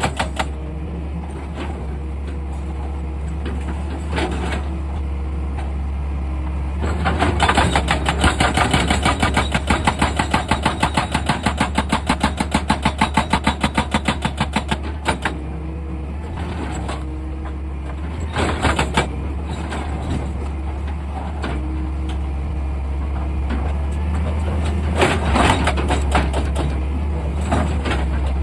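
Excavator engine running steadily, with a run of rapid, even hammering at about five blows a second from about seven to fifteen seconds in, and a few sharp knocks later on.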